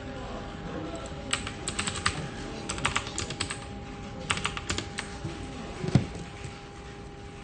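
Computer keyboard typing in quick bursts of clicks over a steady office hum, then a single low thump near the end.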